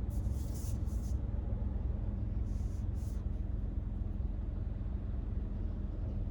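Steady low rumble of a Hyundai Casper heard from inside the cabin while driving, with a faint steady hum and a few short hissy bursts in the first three seconds.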